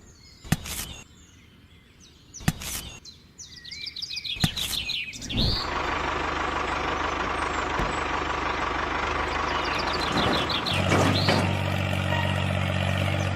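A few sharp clicks and bird chirps, then about five seconds in a vehicle engine starts running steadily, with a deeper, even engine note joining near the end.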